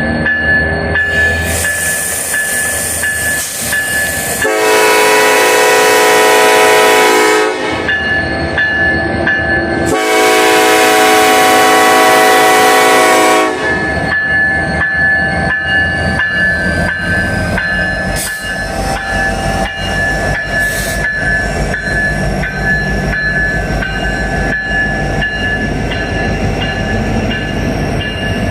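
Freight locomotive's air horn sounding two long blasts of a chord, then the train rolling past with a steady rumble and rhythmic clicking of wheels over rail joints.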